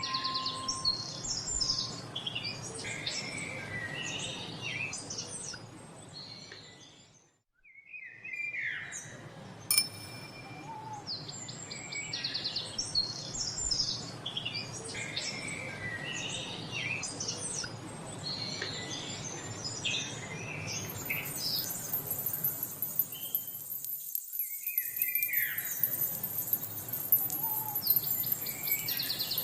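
A chorus of songbirds chirping and trilling. The recording fades almost to silence twice and starts again, as a loop does. There is a single sharp click about ten seconds in, and a high hiss joins in during the last third.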